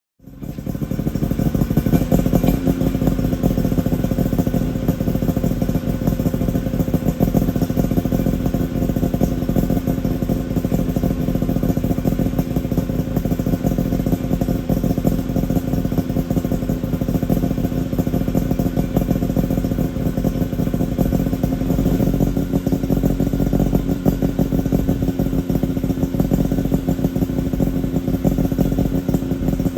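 Suzuki Jimny SJ30's three-cylinder two-stroke engine idling steadily, heard as its exhaust note through an APIO Matsumoto-type expansion chamber and Muffler 2.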